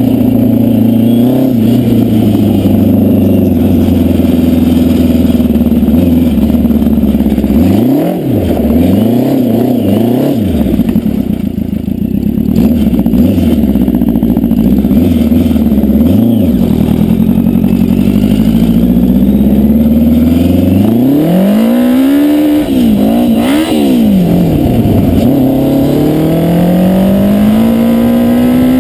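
Yamaha FJ1100 air-cooled inline-four motorcycle engine in a homemade dune buggy, running and being revved: a steady idle broken by several quick throttle blips about a third of the way in, then a longer rise in revs with more blips, and the revs climbing steadily near the end.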